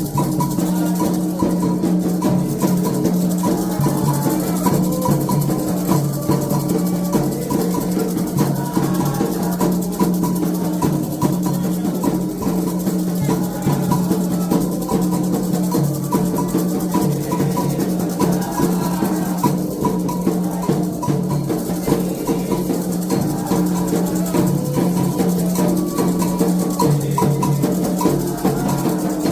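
Candomblé toque: hand drums with a shaker playing a steady, continuous rhythm over sustained pitched music.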